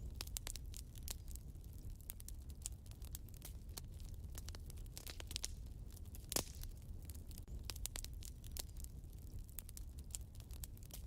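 Wood fire burning in a fireplace, crackling with a steady run of small irregular snaps and one louder pop a little past halfway, over a low steady rumble.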